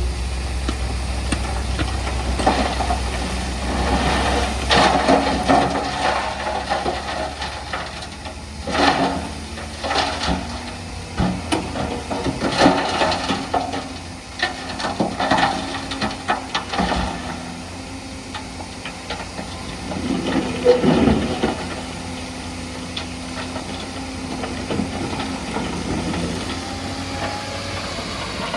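Heavy earthmoving machinery at work: a diesel engine running steadily under irregular bursts of rattling, clanking and scraping, as of soil and rock being pushed or tipped.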